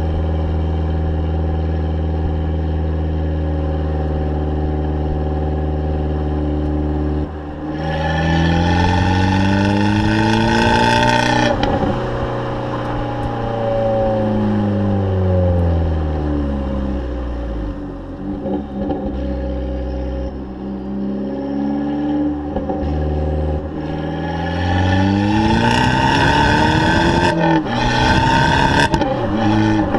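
Abarth 500's turbocharged 1.4-litre four-cylinder engine and exhaust idling steadily, then revved up twice: each time the pitch climbs, holds a few seconds and falls back to idle. A few sharp pops sound as the throttle closes, the backfire of the exhaust on overrun.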